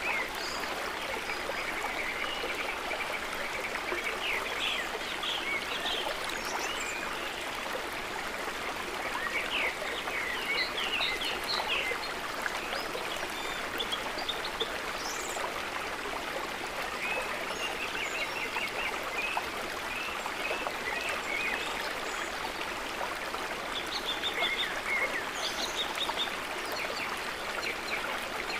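Steady gentle trickle of lake water, with short high chirps of small animals scattered throughout.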